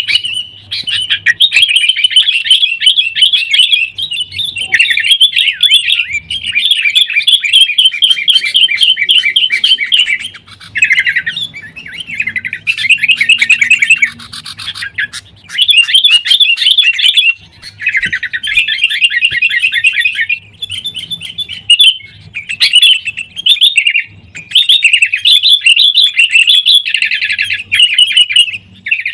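Sooty-headed bulbuls (kutilang) chattering excitedly in rapid runs of quick, loud notes, in bursts of a few seconds with short breaks between them: the noisy, agitated calling of birds squaring up to each other.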